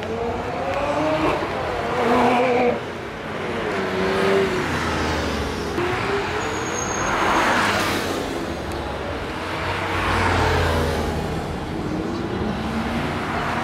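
Sports car engines driving past one after another, revving up and down with several swells as each car goes by.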